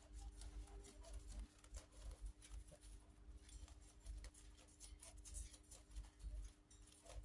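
Faint, irregular small clicks and taps of a cockatiel's beak nibbling and pecking at a sprig of dill, over a low steady hum.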